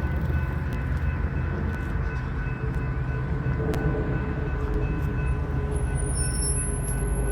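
A train rolling past, a steady low rumble with a few scattered sharp clicks.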